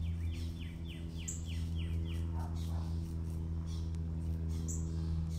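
Small birds chirping: a quick run of about six short descending chirps in the first two seconds and a higher single chirp twice, over a steady low hum.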